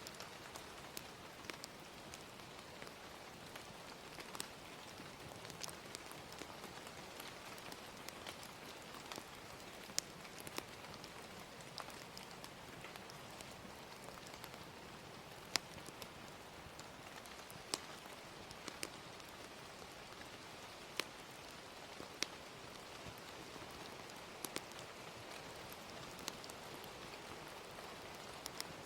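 Ambient track of gentle rain, a soft, steady hiss, with irregular sharp pops and crackles of a wood fire scattered through it, a few standing out louder than the rest.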